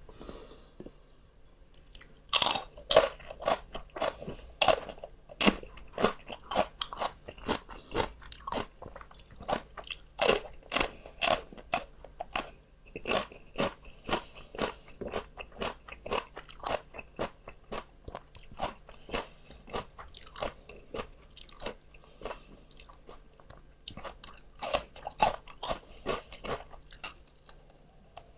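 Close-up crunchy chewing of fresh raw vegetables: a steady run of sharp, crisp crunches, two to three a second, starting about two seconds in.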